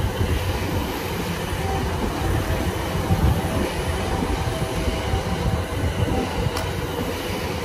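E235-1000 series electric train standing at the platform, its running equipment giving a steady rumble and hum. A single sharp click about six and a half seconds in.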